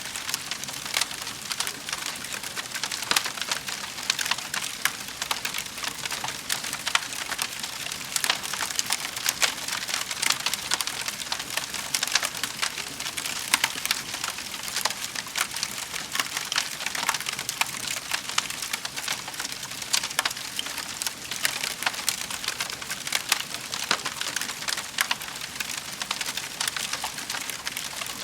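Wood fire crackling in a fireplace: a continuous dense crackle of small pops and snaps.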